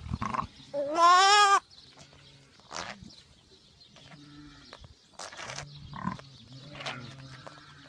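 Newborn lamb bleating: one loud, wavering cry about a second in that rises and then holds, followed by fainter low sounds and handling clicks.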